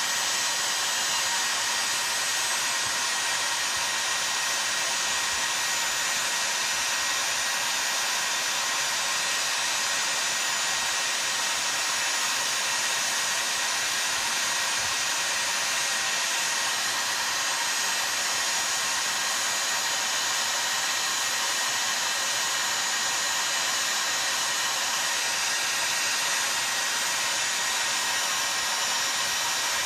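Heat gun running steadily with an even blowing hiss, heating a chainsaw crankcase half so that it expands before the crankshaft bearing and oil seal go in.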